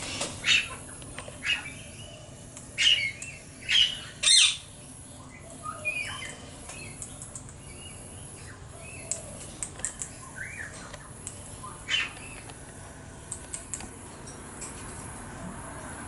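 Australian king parrot giving short, loud, harsh squawks, several in the first five seconds and another about twelve seconds in, with fainter bird chirps in between.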